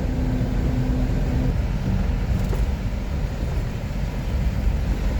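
Vehicle engine running, a steady low rumble with a humming tone that stops about a second and a half in.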